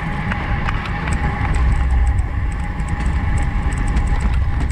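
Wind rumbling over the microphone of a camera on a moving racing bicycle, with a faint steady whine and scattered light ticks over it.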